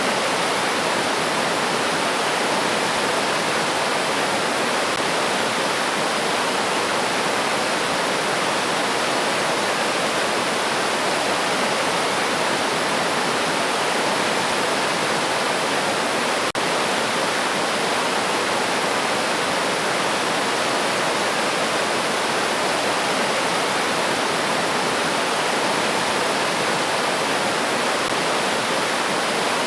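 River water rushing over rocks in a steady, unbroken flow.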